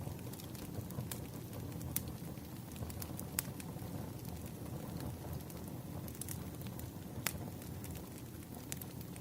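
Campfire burning: a steady low rumble of flames with irregular sharp crackles and pops from the wood, a few louder snaps spread through.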